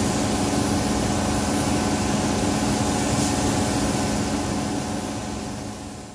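Steady machine noise: a loud even hiss with a low hum under it, fading out near the end.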